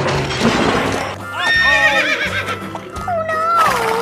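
Cartoon horse whinnying: a wavering call about a second and a half in, then a longer call that falls in pitch near the end, over background music.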